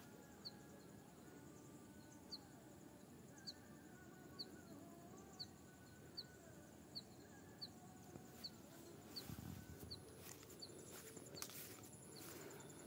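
Near-silent hillside ambience with a small bird's short high chirp repeated roughly once a second, and fainter bird calls further off. A few soft thumps and rustles come in near the end.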